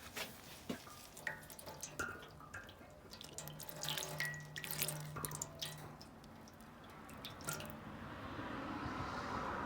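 Liquid dripping and splashing in irregular drops, with a steadier trickle building near the end.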